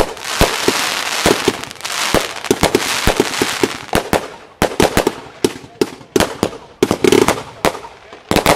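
Consumer fireworks cake (a 216-shot compound) firing in rapid succession: sharp bangs about two to three a second over a dense crackling hiss from the bursting effects, which is thickest in the first few seconds.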